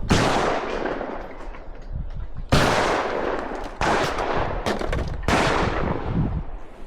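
Shotgun shots at clay targets: four sharp reports, each trailing off in a ringing tail, the loudest about two and a half seconds in.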